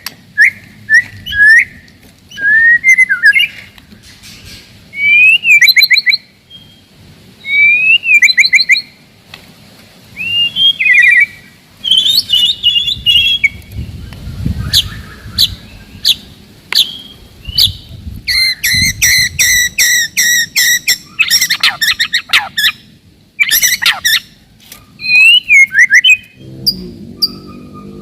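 White-rumped shama singing: a fast run of loud whistled phrases with swooping notes, broken by rapid clicking, rattling bursts.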